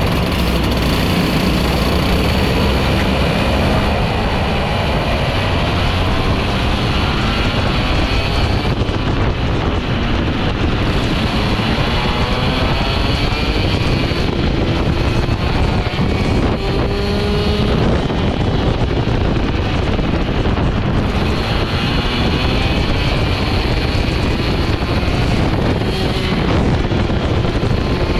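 Two-stroke ROK GP kart engine at racing speed, its pitch repeatedly rising and then dropping as the revs climb and fall, with heavy wind noise on the microphone.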